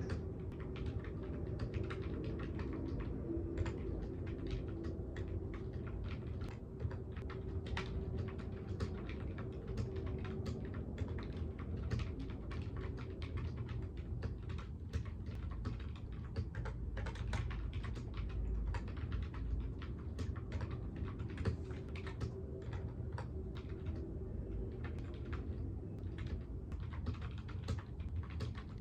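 Typing on a computer keyboard: a steady stream of irregular key clicks, over a low steady hum.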